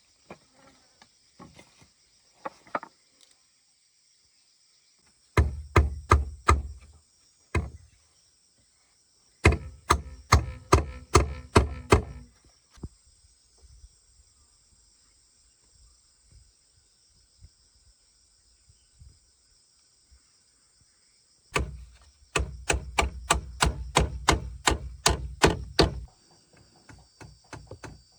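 A hand tool striking wood in three runs of blows, about three a second, the last run the longest. Insects drone steadily in the background.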